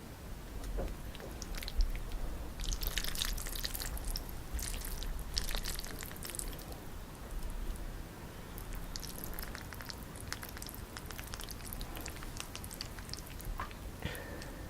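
Close-miked wet, sticky food-handling sounds: irregular drips and small clicks and squelches, busiest a few seconds in.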